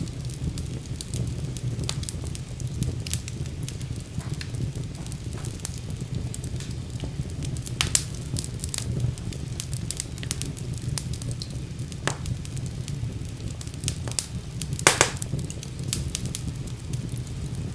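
Wood fire burning in a fireplace: a steady low rumble of flames under constant crackling, with a few sharper, louder pops, one about halfway through and one near the end.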